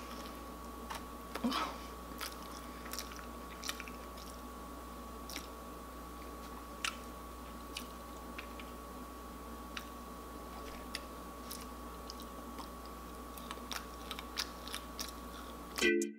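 Close-up eating sounds: chewing crab legs, with scattered small clicks and crackles, over a faint steady electrical hum. Music cuts in abruptly right at the end.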